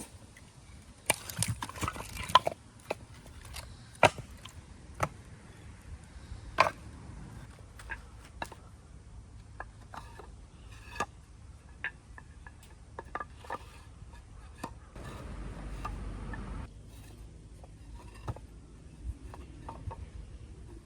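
Irregular sharp knocks and clicks of objects being handled, with a quick cluster about a second in and then scattered single strikes.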